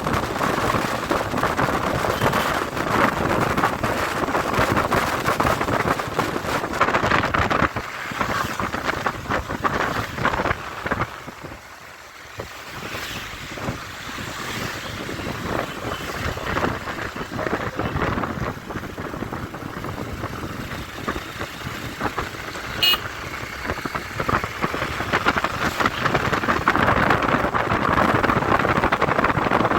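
Wind buffeting the microphone on a moving motorcycle, with rushing road noise. It eases off about eleven seconds in, then builds up again.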